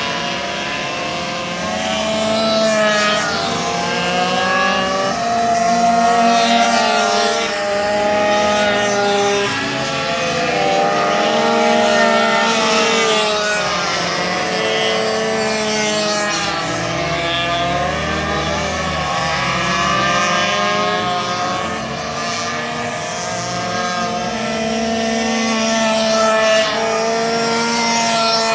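Several racing minibike engines running at high revs, their pitches overlapping and repeatedly rising and falling as the bikes accelerate, back off and pass.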